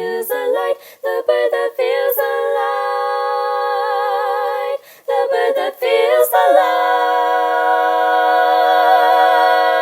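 Layered a cappella singing in close harmony, a woman's voice multitracked into several parts, closing the hymn. The parts move through short notes, pause briefly near the middle, then settle on a long sustained final chord held to the end.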